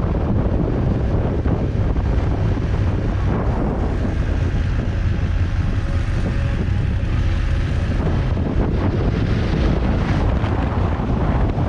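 Wind buffeting the microphone of a camera riding on a motorcycle, a steady roar heaviest in the lows, with the motorcycle's engine running underneath.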